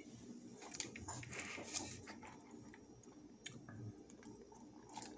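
Faint eating sounds: wet chewing with small mouth clicks, then a sip from a drink cup near the end.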